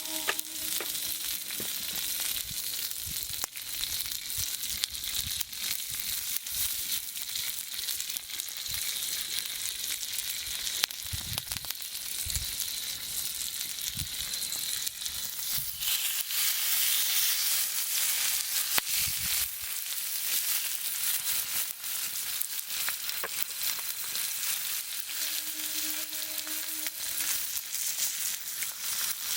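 Meat sizzling as it grills over a campfire: a steady frying hiss full of small crackles and pops, with a few soft low thuds near the middle.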